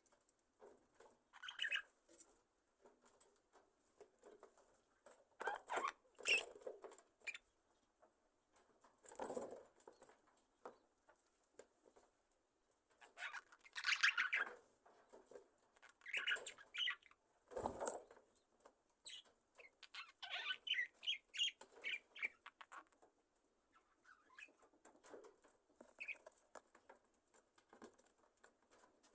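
A colony of budgerigars (budgies) giving short chirps, with wing rustles and small scratchy movements among them, coming in scattered bursts with brief quiet gaps between.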